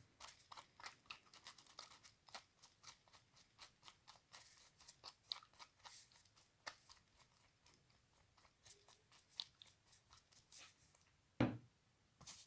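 Faint, irregular scratchy strokes of a small brush rubbing grey shoe polish onto a die-cast toy car's tiny tyres, several strokes a second, with a louder knock near the end.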